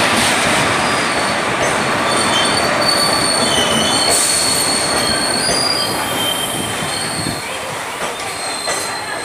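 Passenger train coaches rolling past along a platform as the express pulls in, a dense rumble of wheels on rail with high, shifting wheel and brake squeals over it. The rumble eases off over the last few seconds as the train slows.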